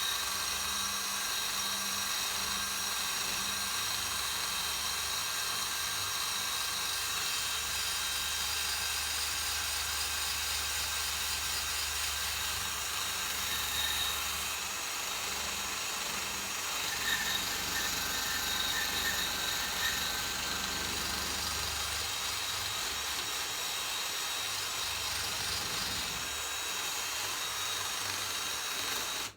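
Hand-held power drill running steadily with a wire wheel scrubbing rust off the metal of a small engine, with a high scraping hiss over the motor's whir. It cuts off suddenly at the end.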